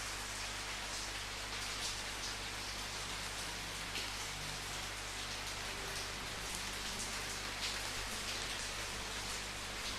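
Steady rain falling, a dense even patter with now and then a louder drop splashing.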